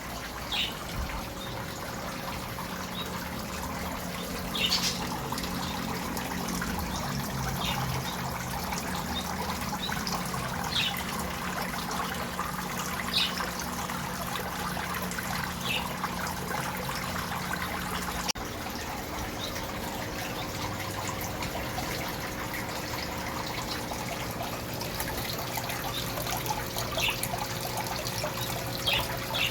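Aquarium water trickling steadily over a low, steady pump hum, with a few short high chirps scattered through.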